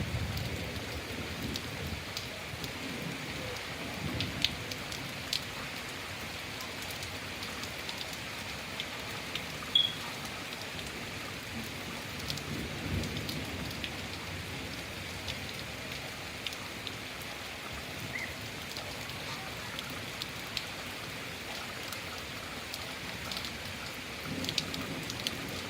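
Steady rain falling, with scattered drops ticking on nearby surfaces and a few soft low rumbles now and then. A single short, high chirp about ten seconds in stands out as the loudest moment.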